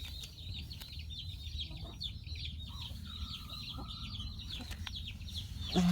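Many chicks peeping: a dense, continuous run of short, high, falling calls overlapping one another, over a low steady hum.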